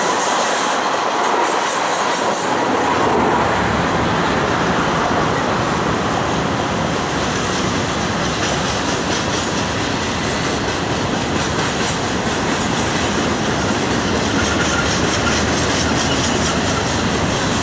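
Freight cars of a doublestack intermodal train rolling past: a steady, loud rumble and rattle of steel wheels on rail, with clickety-clack as the wheels cross rail joints.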